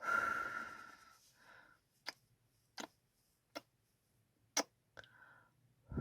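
Close-miked ASMR kissing sounds: a soft breathy kiss at the start, then five short, sharp lip-smack kisses about a second apart.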